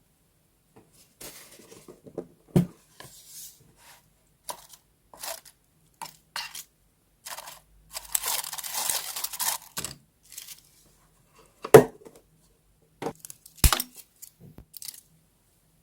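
Paper being handled and torn in short rustling strokes, with a longer tear of about two seconds near the middle. Three sharp taps come about two and a half seconds in and twice near the end.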